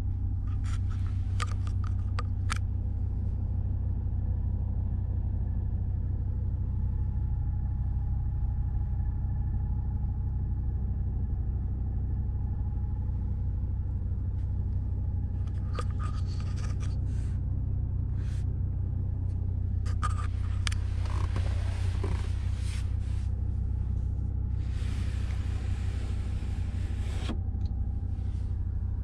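Audi RS3's 2.5-litre five-cylinder engine idling as a steady low hum heard inside the cabin, with a few clicks and scrapes of handling. Near the end the panoramic roof's blind slides open with a motor whir that lasts about three seconds.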